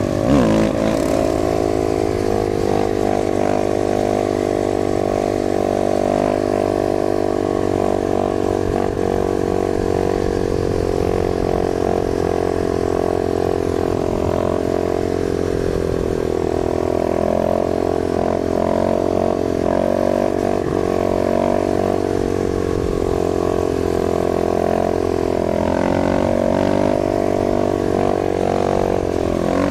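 Dirt bike engine running at a steady cruise, its note dipping and rising slightly a couple of times as the throttle changes.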